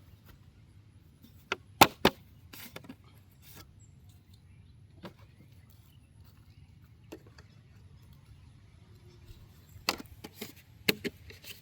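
Scattered sharp knocks and clicks over a faint low rumble: a loud pair about two seconds in, single ones later, and a quick cluster near the end.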